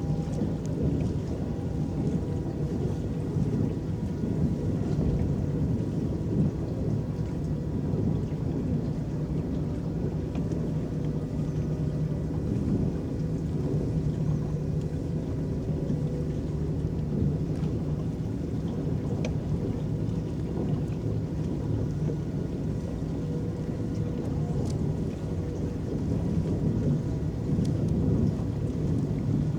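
Electric boat underway: a steady low rumble of water churning and lapping along the hull, with faint steady tones above it.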